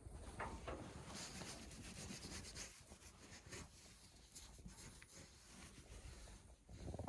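Faint, irregular rustling and scraping, like something being rubbed or handled.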